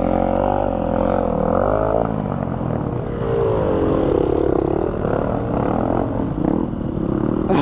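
Dirt bike engine running under way, its revs rising and falling several times as the rider works the throttle.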